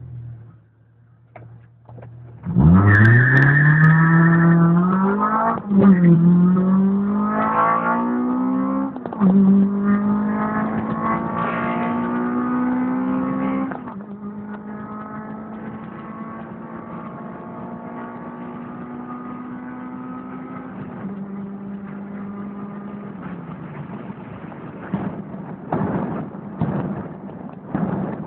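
Honda LS-VTEC four-cylinder engine in a 2000 Civic at full throttle from a standstill, the revs climbing and dropping at three upshifts through the five-speed gearbox. About fourteen seconds in the throttle eases, and the engine note holds steady, then winds down.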